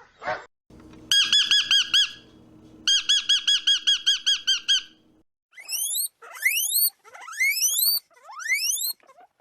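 A bird calling: two bursts of rapid repeated chirps, about ten a second, then five quick rising whistles.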